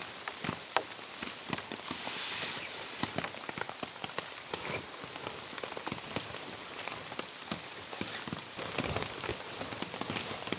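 Steady heavy rain falling, with many separate drop hits scattered through it and a brief louder rush of noise about two seconds in.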